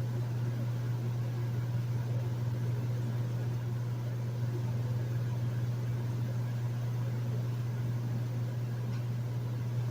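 Hotel room air conditioner running steadily: a constant low hum under an even hiss of moving air.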